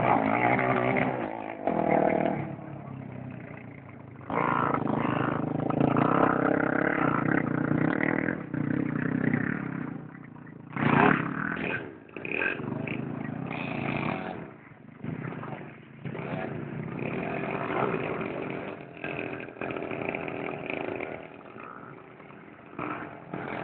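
Motorcycle engine being ridden hard, its note rising and falling with the throttle and growing louder and fainter as the bike passes near and moves off.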